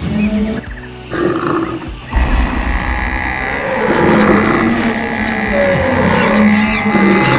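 Animal stampede sound effect: a mix of animal calls, lowing and roaring, over a low rumble of running hooves. It jumps louder about two seconds in and stays dense.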